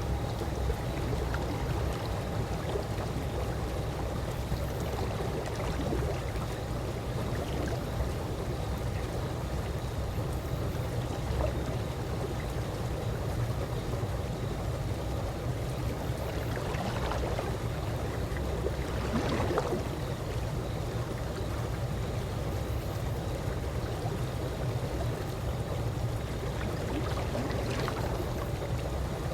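Calm swimming-pool water lapping in a steady low wash, with a few small splashes around the middle and near the end.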